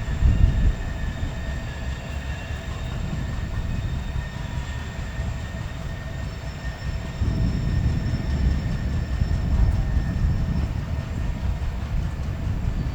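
Freight train moving on the rails: a continuous low rumble with faint thin, steady wheel squeals above it, growing louder about seven seconds in.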